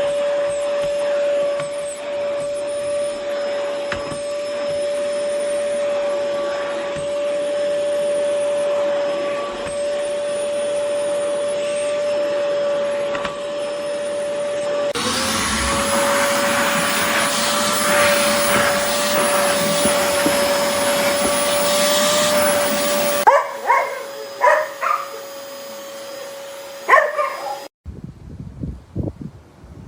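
Oreck Commercial XL Pro 5 canister vacuum running with a steady motor whine over a rushing air noise. About halfway in, the rush grows louder and rougher for several seconds, then drops away. A few short squeaks follow, and the motor switches off near the end.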